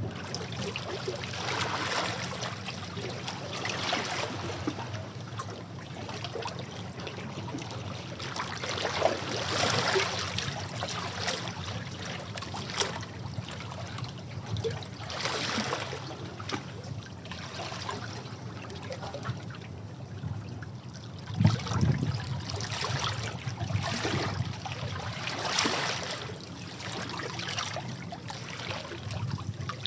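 Sea waves washing against rocks, with water surging and splashing in repeated swells every few seconds and a stronger surge about two-thirds of the way through.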